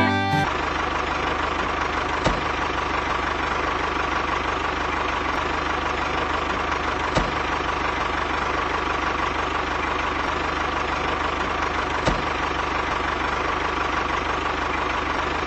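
Engine idling steadily, with three faint clicks about five seconds apart.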